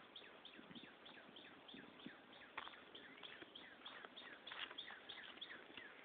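Faint birds chirping: many short falling chirps in quick succession over a quiet outdoor background.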